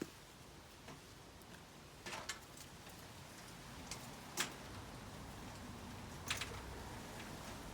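A few scattered sharp clicks and knocks, the loudest about halfway through, over a faint low rumble that grows a little in the second half.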